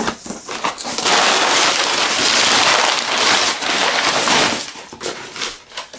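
A cardboard shipping box being opened by hand: a dense ripping and rustling of tape and packing material for about three and a half seconds, then a few short rustles near the end.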